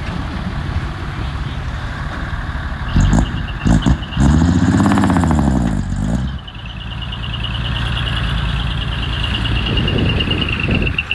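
Diesel engine of heavy earthmoving machinery running, revving up and falling back about halfway through. A high, rapidly pulsing whine rides over the engine in the second half.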